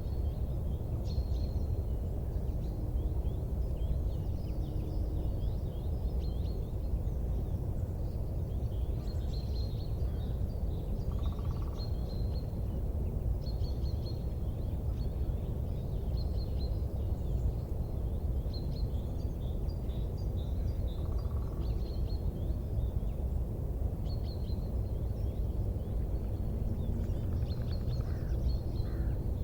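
Wood fire burning in a fireplace with a steady low rumble, overlaid by frequent short high chirps.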